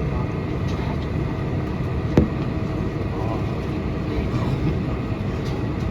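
Steady low rumble of cabin noise inside a Boeing 747-400 airliner during pushback, with a single sharp knock about two seconds in.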